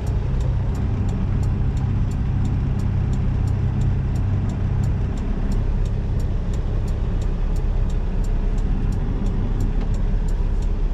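Semi truck's diesel engine running, heard from inside the cab: a steady low rumble that eases a little about five seconds in. A faint, even ticking about three times a second runs underneath.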